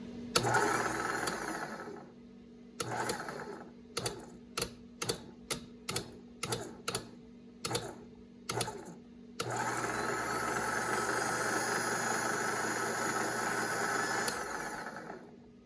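Electric motor of a rebuilt Ramsey 12,000 lb worm-gear winch powered up on the bench. It runs for a second or two, gives a short burst, is bumped on and off about a dozen times in quick succession, then runs steadily for about five seconds before winding down near the end.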